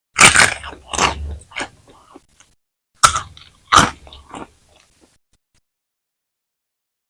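Close-miked bites into crispy french fries: two bursts of sharp crunching and chewing, the second about three seconds after the first.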